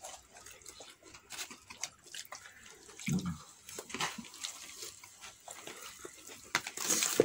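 Close, wet chewing and mouth sounds of someone eating fried chicken and salad leaves, with many small clicks and a brief crisp crackle near the end.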